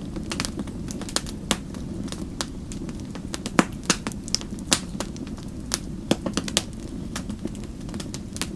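Wood fire crackling: irregular sharp pops and snaps, several louder ones a little after the middle, over a steady low rumble of burning.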